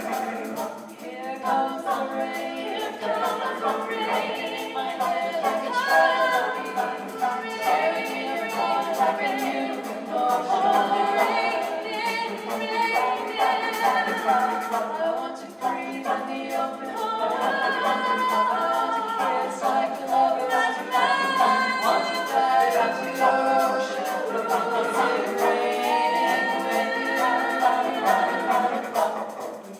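A choir singing a cappella, several voices in harmony with no instruments, the singing stopping right at the end.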